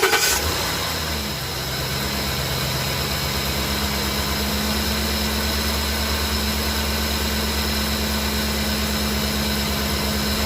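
Ford Expedition engine just started, its revs settling within the first second or so into a steady idle; the idler pulley and tensioner have been replaced.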